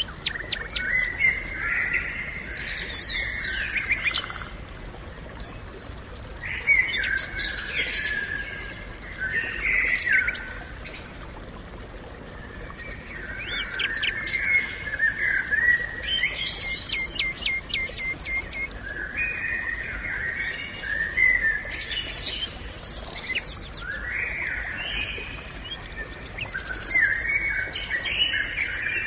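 Songbirds singing in a forest: a song phrase every few seconds with short pauses between, over a faint steady background hiss.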